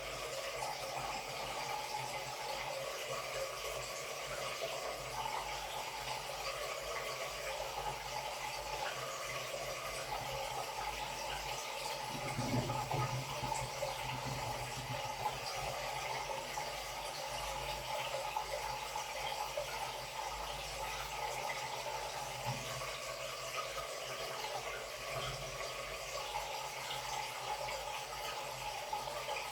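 Water running steadily into the tub of a Samsung Wobble 14 kg washing machine as it washes a comforter, with a brief low rumble about twelve seconds in.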